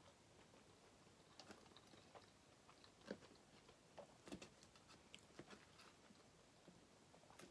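Faint, quiet chewing of soft, cheese-topped fries, with scattered light clicks of a metal fork against a metal sheet pan, a few of them sharper about three and four seconds in.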